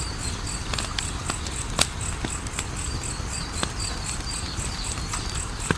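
Wood fire crackling, with scattered sharp pops over a low rumble and hiss; two pops, about two seconds in and near the end, are louder. Insects chirp steadily behind it, an even high chirp about three times a second.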